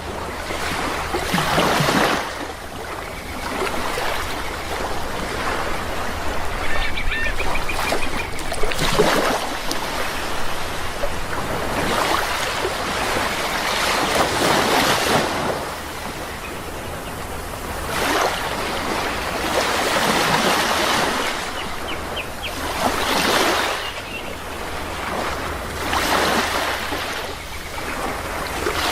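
Sea waves breaking and washing in, swelling and fading in surges every few seconds, with a few faint bird calls between them.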